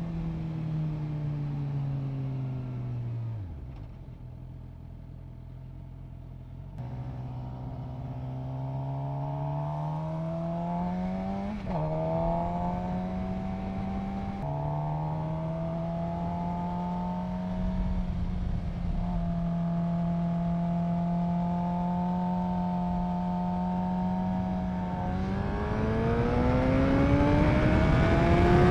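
Suzuki GSX-R750 inline-four engine. The revs drop to idle for a few seconds, then climb and break at a couple of gear changes. The engine holds steady at cruising revs, then rises sharply near the end as the bike accelerates.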